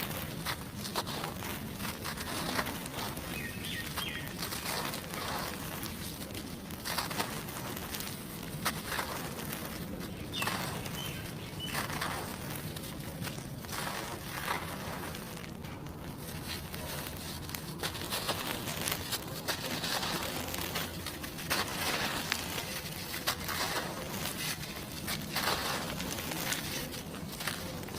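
Dry cement being crumbled: a dense, irregular run of crunchy, gritty crackles.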